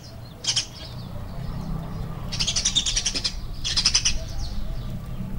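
Small birds chirping in quick trills: three bursts, the longest lasting about a second, over a low steady background rumble.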